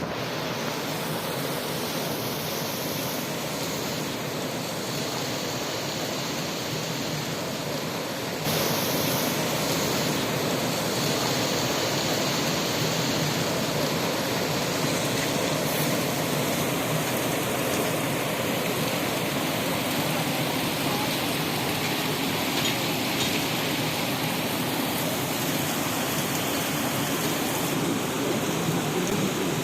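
Water rushing steadily down a waterfall, an even hiss that suddenly gets louder about eight seconds in.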